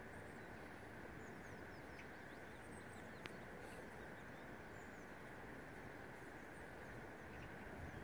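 Faint outdoor ambience: a steady background hiss with scattered short, high bird peeps and chirps, and a single sharp tick about three seconds in.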